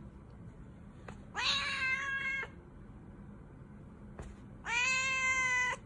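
A cat giving two long, drawn-out meows of about a second each, one about a second and a half in and the other near the end.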